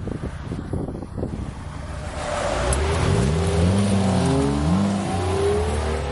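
Car engine being revved over and over, its pitch climbing and dropping back in repeated blips of about a second each, starting about two seconds in after a low rumble.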